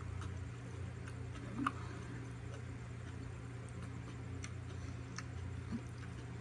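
Faint, irregular mouth clicks from chewing, over a steady low hum.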